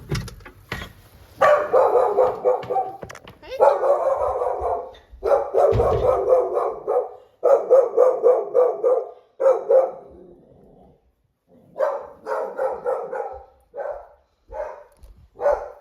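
A fearful rescue dog barking repeatedly in runs of a second or two, with a brief lull about ten seconds in: reactive barking at a person coming into the house.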